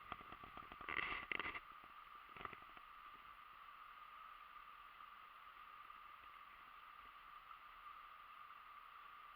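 Creek water running steadily, faint, with a short burst of scuffing noise about a second in and a briefer one about two and a half seconds in.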